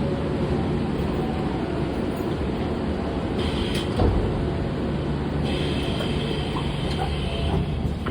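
Sliding doors of a Hankyu 2300 series train closing, with a thud about four seconds in, over the steady low hum of the stopped train. A higher steady tone joins about five and a half seconds in.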